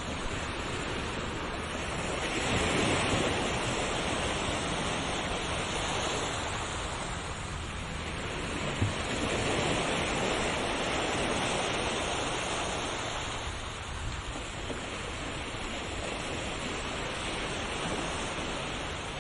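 Ocean waves washing onto a shore in slow, rolling swells that rise and fall every few seconds, with a single faint click about nine seconds in.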